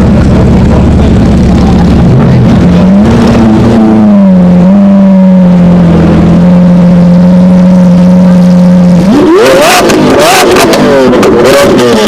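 Lamborghini engine running loud at a held, fairly steady rev for several seconds, then revved hard about nine seconds in, its pitch swinging up and down in several quick blips.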